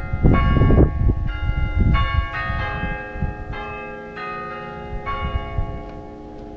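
Church bells ringing, several bells struck one after another about twice a second, their tones overlapping and dying away towards the end. A low rumbling noise sits under the first second.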